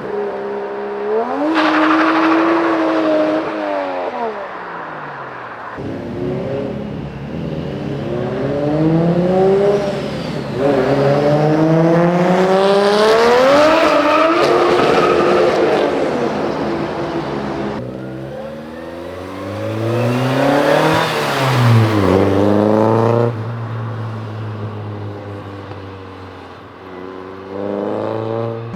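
Modified Japanese performance car engines revving and accelerating away, one car after another in short cuts. Each pull rises in pitch and drops back at the gear changes.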